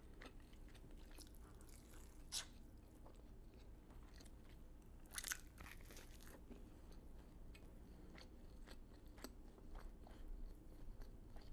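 Faint chewing and crunching of fried chicken, with two slightly louder crunchy bites about two and a half and five seconds in.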